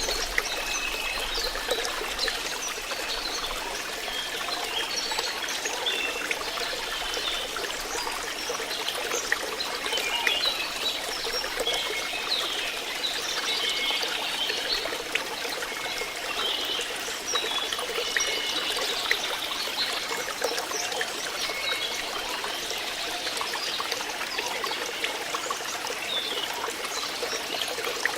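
Flowing water trickling and gurgling steadily, like a small stream, with many small splashing gurgles.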